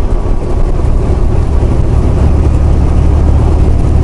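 Steady low drone of a semi-truck's diesel engine and road rumble, heard from inside the cab while driving.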